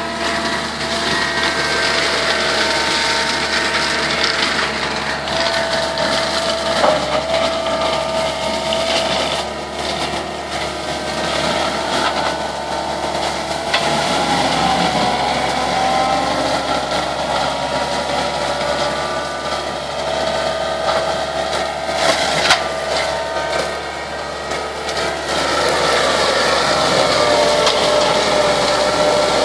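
Cat 299C compact track loader running hard with its HM315B hydraulic mulcher drum spinning and chewing through brush: a loud steady whine with a few sharp cracks of wood. The pitch dips now and then as the drum bites into the brush.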